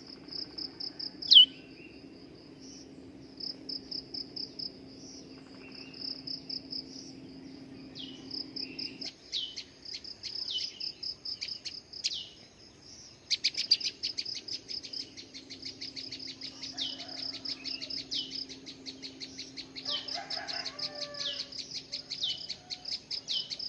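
Prinia chirping: short, sharp downward-falling notes repeated every second or so, with a rapid rattling call from about halfway through, and one loud sharp chirp about a second in. Under it runs a steady high pulsing insect trill.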